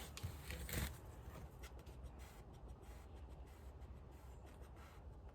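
Faint scraping and a few light clicks of hand tools working on a stuck part, over a steady low rumble. The clearest click comes a little under a second in.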